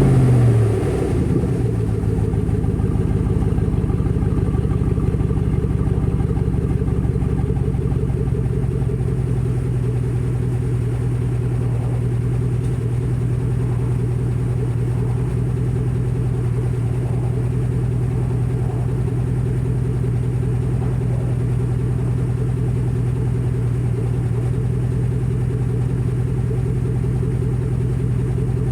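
Chevrolet Tahoe 5.3-litre V8 with the muffler and resonator cut out, idling steadily through the open exhaust. It settles back to idle from a short rev in the first second.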